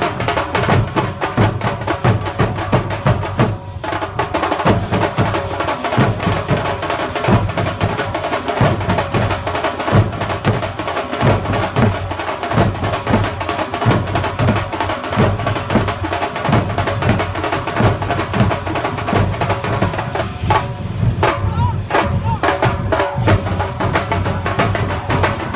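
Thambolam melam percussion ensemble playing: bass drums and side drums beating a loud, dense, driving rhythm that never stops, with a steady ringing over the top.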